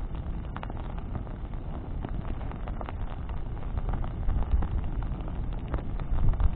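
Wood bonfire crackling, with frequent sharp pops and snaps over a low, steady rumble that swells twice in the second half.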